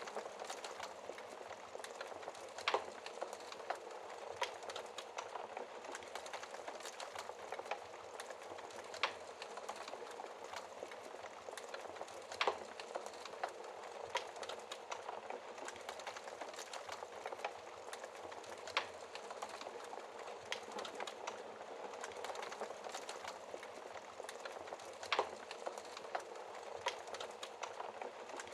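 Wood fire crackling in a fireplace: a steady bed of fine crackles and hiss, with a handful of sharper pops spread through.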